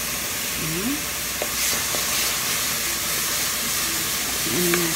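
Onion, garlic and ginger sizzling steadily in hot oil in a wok while being stirred with a wooden spatula, with a few light scrapes of the spatula against the pan.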